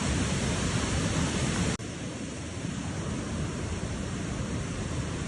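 Steady rush of a mountain stream. About two seconds in it drops suddenly and goes on a little quieter.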